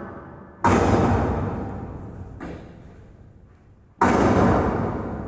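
Two heavy thuds, about 0.7 s and 4 s in, each starting sharply and dying away slowly over about three seconds, with the tail of an earlier thud fading at the start.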